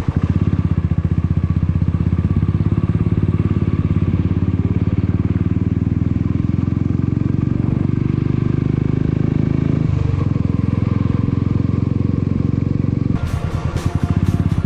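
Royal Enfield motorcycle engine running steadily under way, with a dense low pulsing exhaust note. About thirteen seconds in, background music with a regular beat comes in over it.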